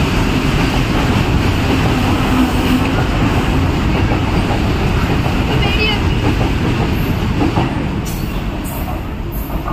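Freight train of covered goods wagons rolling past, a steady heavy rumble of wheels on rail. It eases off as the last wagon goes by near the end.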